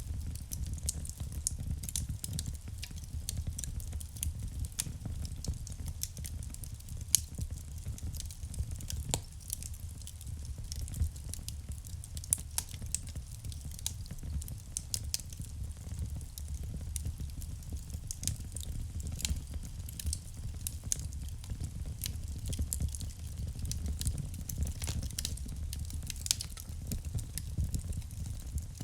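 Wood fire burning in a fireplace: dense, irregular crackling with small pops, a few louder pops standing out, over a steady low rumble of the flames.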